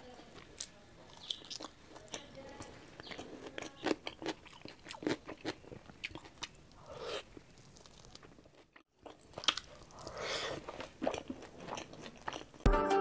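Close-miked chewing of a mouthful of rice and pork curry, with wet smacking and crunchy bites coming irregularly. Music starts suddenly near the end.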